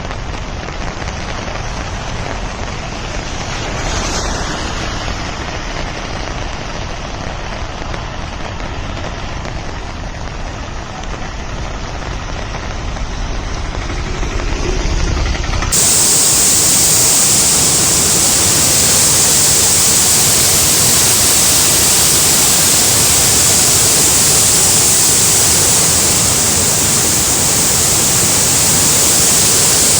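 Floodwater rushing in a steady wash of noise. About halfway through, the sound cuts abruptly to a louder, fuller rush.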